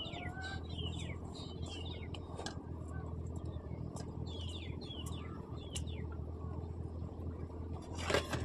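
Small birds chirping, short falling chirps repeated in clusters, over a steady low hum. A single short sharp sound stands out near the end.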